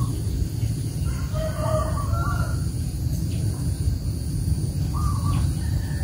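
A steady low rumble with a few short bird calls from fowl: a cluster about a second or two in, then one more call about five seconds in.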